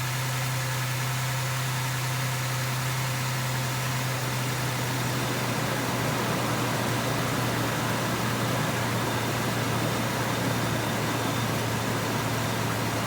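2003 Ford F-150's 4.2-litre V6 idling steadily on a fresh fill of synthetic oil, just after starting. A steady low hum runs throughout, and a rougher rushing sound grows in about a third of the way through.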